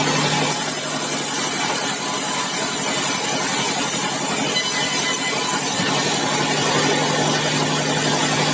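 Sawmill saw cutting through a bengkirai hardwood log, over the steady drone of the mill's power unit. The hiss of the cut strengthens about half a second in and eases off near six seconds, while the drone runs on unchanged.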